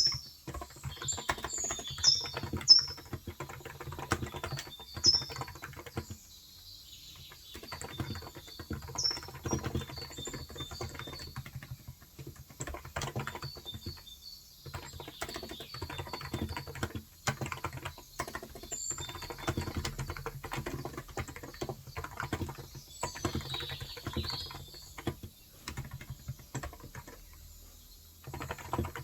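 Fast typing on a Cox Endeavour electrostatic capacitive keyboard with light 35 g switches, a dense run of soft key clacks broken by a few short pauses. Birds chirp in the background, mostly in the first few seconds and again briefly later on.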